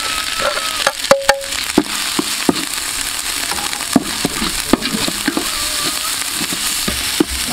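Pounded lemongrass curry paste sizzling as it fries in hot oil in a large metal pot. A metal spatula stirs it, with scattered sharp scrapes and knocks against the pot.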